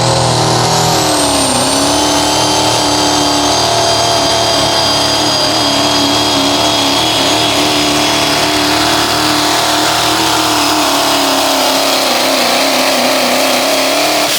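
Pulling pickup truck's engine held at full throttle through a pull, running at high, nearly steady revs with a high-pitched whine over it that climbs in the first second and then holds.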